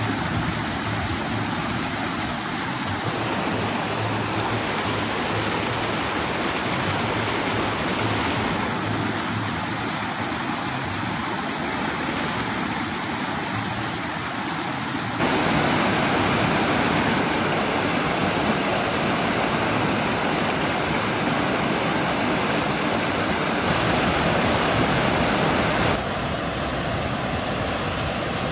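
Fast-flowing stream water rushing steadily. It gets louder about halfway through and drops back a little near the end.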